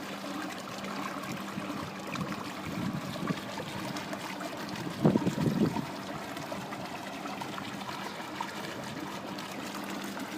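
Water running and trickling steadily, with a low steady hum underneath. A brief louder sound comes about halfway through.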